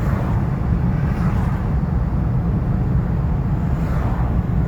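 Steady low rumble of a ute's engine and tyres on the road, heard from inside the cab while driving.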